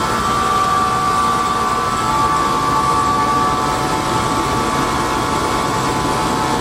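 Helicopter's turbine engine and rotor running steadily, heard from inside the cabin: a constant loud din with a steady whine over it.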